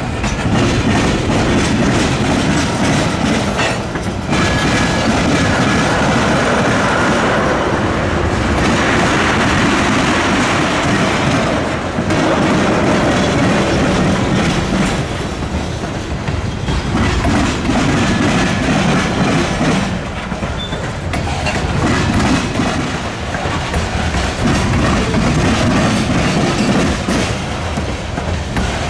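Freight train cars rolling past over a railroad diamond, their wheels clattering steadily across the crossing, with faint wheel squeal at times.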